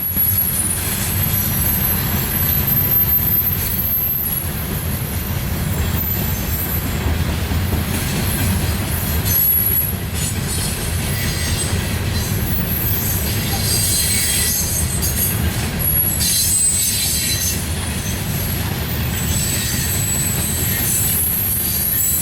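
Freight train cars rolling past at close range: a steady low rumble of wheels on rail, with high-pitched wheel squeal coming and going throughout.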